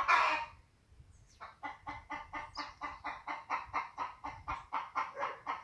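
A bird calling in a rapid, even series of short notes, about five a second, starting a little over a second in, after a short noisy burst at the very start.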